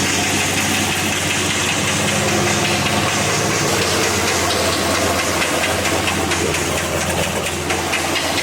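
Freshly turbocharged pickup truck engine idling steadily just after first start-up, with a steady hiss over the engine note.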